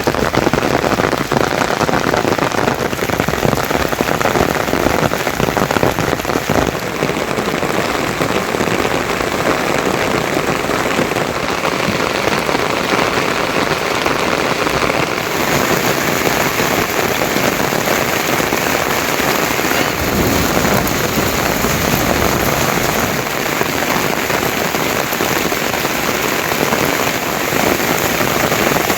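Heavy monsoon rain falling steadily, a dense, even downpour.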